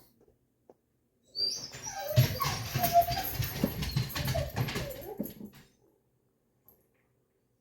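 Dog whining and whimpering for about four seconds, starting about a second and a half in, over a low rumbling noise.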